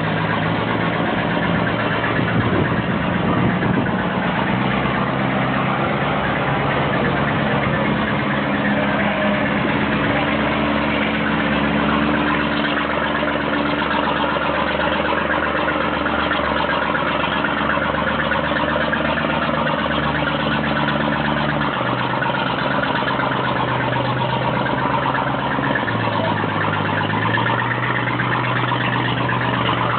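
Ferry boat's engine running steadily under a wash of engine and water noise; its speed changes about two-thirds of the way through and again shortly after.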